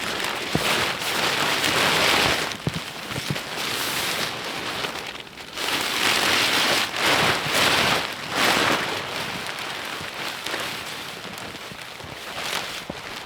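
Tarp fabric rustling and crinkling as it is handled, in uneven swells, with a few small knocks.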